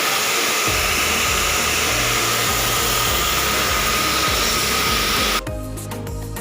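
A loud, steady rushing hiss with a thin whine in it, like a blower or jet of air or water, cutting off suddenly about five seconds in. Background music plays underneath.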